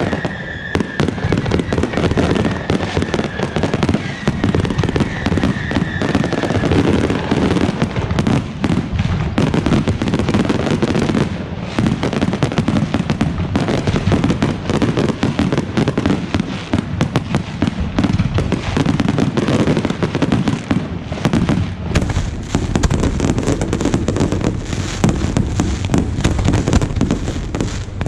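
Fireworks display going off continuously: a dense run of bangs and crackling with no pause, and a thin whistle over the first few seconds.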